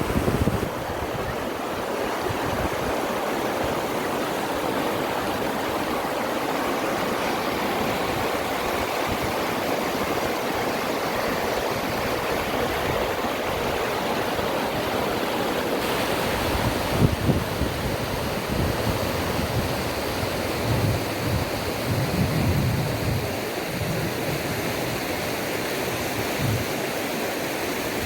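Small river's water rushing steadily, a constant even splashing rush, with a few brief low bumps on the microphone about two-thirds of the way through.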